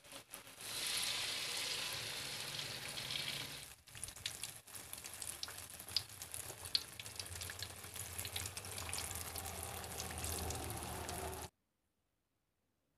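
Battered timadang (tarap) fruit pieces deep-frying in hot oil in a wok: steady sizzling with scattered crackles and pops. The sizzle cuts off suddenly near the end.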